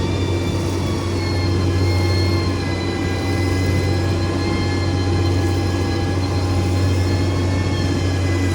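Heavy diesel engine of a road-construction machine running steadily, with a high whine above the low engine hum.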